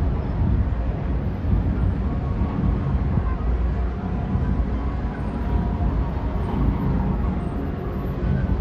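Steady low rumble of an outdoor crowd, with a murmur of voices and no distinct bangs.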